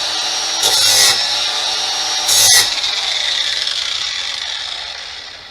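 Electric power tool sharpening a steel lawn mower blade: a steady motor whine with two louder grinding passes against the edge, about a second and two and a half seconds in. The motor is then switched off and winds down over the last few seconds.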